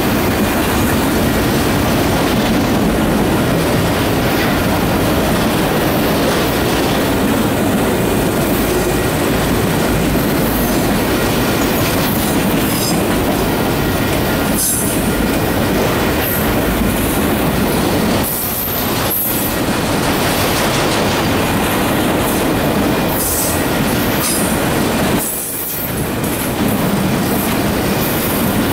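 A train of empty autorack freight cars rolling past close by: a steady loud rumble of steel wheels on rail with clattering over the rail joints. Brief high-pitched wheel squeals come now and then.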